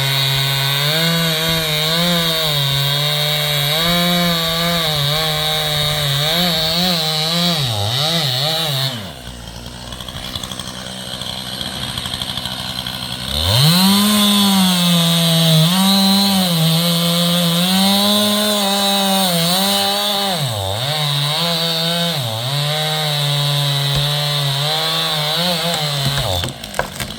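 Stihl two-stroke chainsaw running at full throttle through poplar wood, its pitch sagging and recovering as the chain bites. About nine seconds in it drops away for roughly four seconds, then revs back up and cuts again until it stops near the end.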